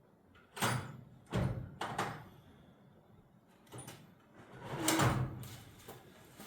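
Rummaging for a misplaced socket among tools and drawers: a string of clunks, knocks and sliding scrapes, about five in all, the loudest about five seconds in.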